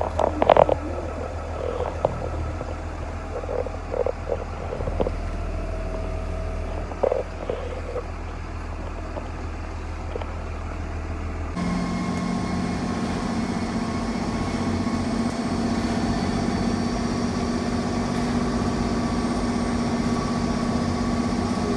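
Diesel truck engine running, with a steady low hum and scattered knocks and rattles. About halfway through the sound switches abruptly to a steadier, slightly louder engine drone with road noise.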